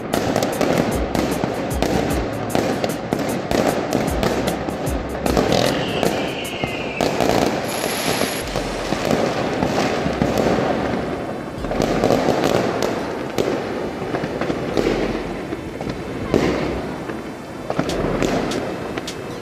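Fireworks going off in quick succession: many sharp bangs and crackles, over background music.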